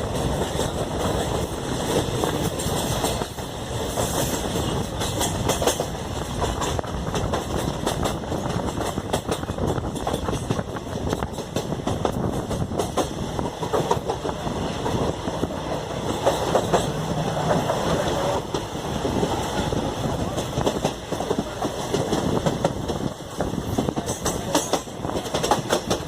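Koyna Express passenger train running along the track: a steady rumble with the clickety-clack of the wheels passing over rail joints.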